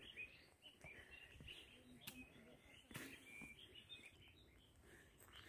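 Faint, scattered chirping of small birds, short high chirps coming every so often, with a couple of soft clicks in the middle.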